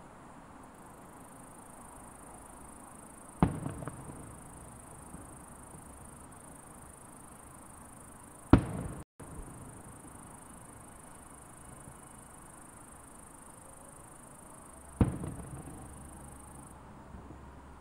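Three aerial firework shells bursting, each a sharp boom followed by a trailing echo, about five seconds apart; the middle burst is the loudest.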